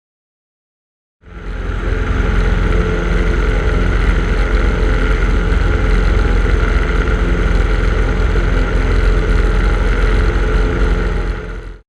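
Cessna 150's Continental four-cylinder engine and propeller droning steadily in cruise, with rushing air, as heard in the cabin. It starts abruptly about a second in and cuts off just before the end.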